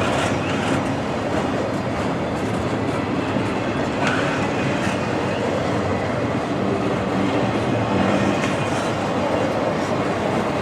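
Freight train cars rolling past on the rails: a steady running noise with a few sharp clicks from the wheels.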